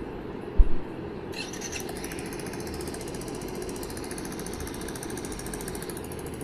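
Playback of a recording of a Yamaha XMAX scooter fitted with a ProSpeed exhaust: a single low thump about half a second in, then a fast, even mechanical ticking that starts about a second in and keeps going over a steady background hum.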